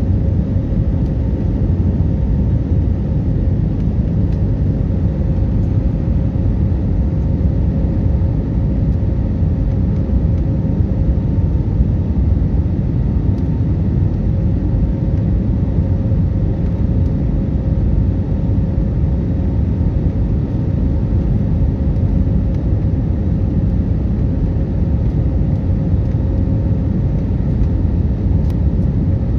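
Aircraft noise: a steady low rumble with a faint constant hum running through it.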